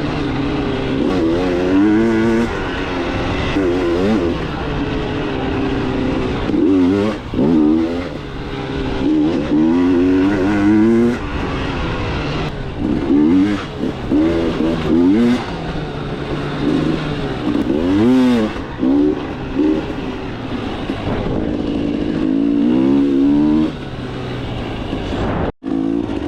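KTM 300 two-stroke dirt bike engine revving up and down over and over as it is ridden, its pitch climbing and dropping with throttle and gear changes. The sound cuts out for a split second near the end.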